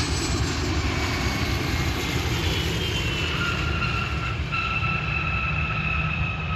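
Jet aircraft engines running loud and steady under a low rumble, with high whining tones that slowly fall in pitch from a few seconds in.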